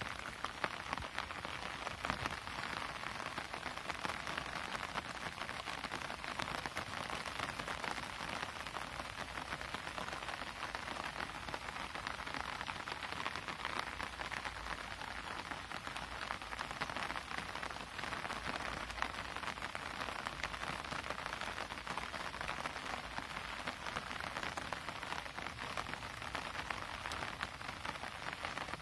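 Steady rain falling outdoors, a dense, even patter of drops with no let-up.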